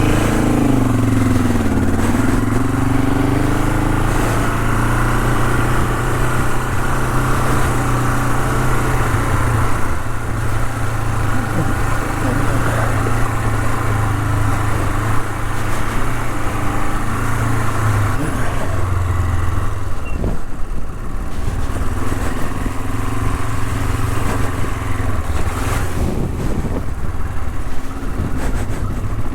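Honda CL450's parallel-twin engine running steadily as the motorcycle is ridden, its pitch dipping and rising again in the first couple of seconds.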